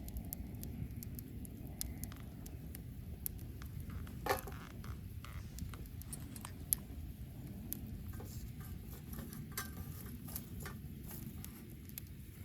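Wood bonfire burning: a low rumble of flames with irregular crackles and pops from the burning wood. There is a louder, longer crackle about four seconds in and a sharp pop just before seven seconds.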